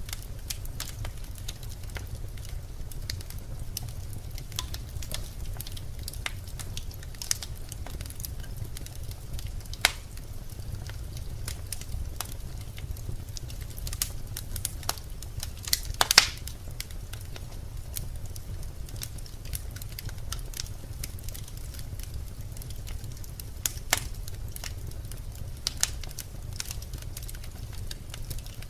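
Birch logs burning in a fireplace, crackling with irregular sharp pops, the loudest about halfway through, over a steady low rumble.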